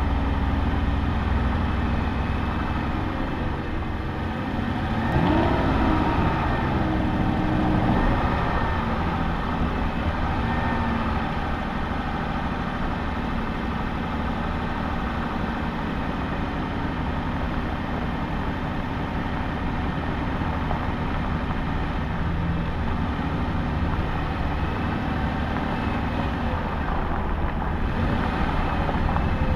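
Aston Martin engine running at low speed as the car moves off slowly, heard close up from its bonnet. The engine pitch rises and falls briefly about five to eight seconds in.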